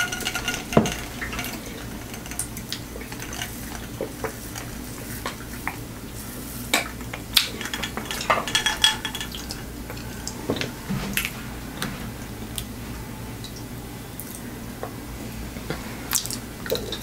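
Close-miked eating sounds: wet mouth smacks and scattered sharp clicks while chewing hard-boiled egg.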